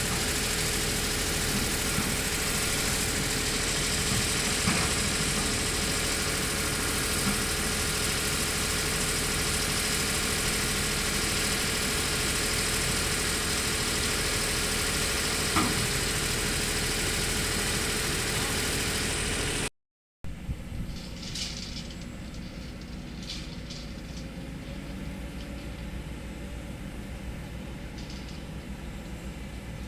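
Hydraulic excavator's diesel engine running steadily. About two-thirds of the way through, it cuts off abruptly to a quieter low engine hum with a few short clicks.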